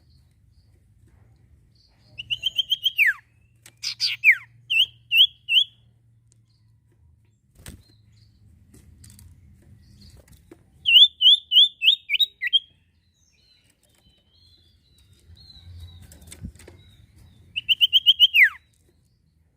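Sirtu (cipoh) songbird singing in short bursts of rapid high chirped notes, several of the phrases ending in a quick downward-falling note, with pauses of a few seconds between them.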